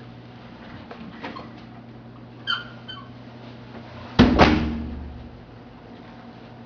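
A door being handled and shut: faint clicks, a short high squeak or beep, then a heavy double thud that dies away over about a second, over a steady low room hum.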